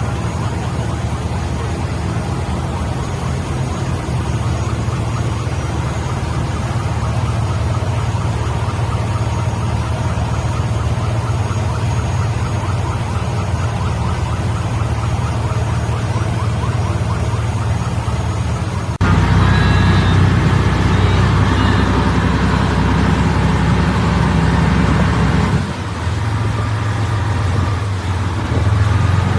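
Motor boat engine running steadily with a low hum. The sound changes abruptly about two-thirds of the way through, growing louder, then shifts again near the end.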